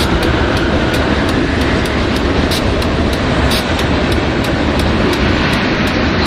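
BNSF freight train passing close by at speed: a steady loud rumble of steel wheels on rail, with a quick run of clicks as the wheels cross the rail joints.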